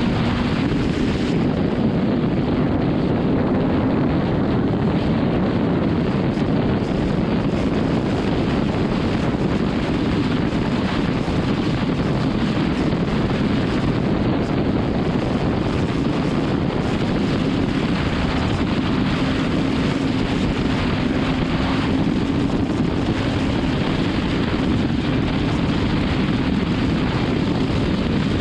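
BMW S1000RR's inline-four engine running at a steady highway cruise, its hum held at an even pitch under a constant rush of wind on the microphone.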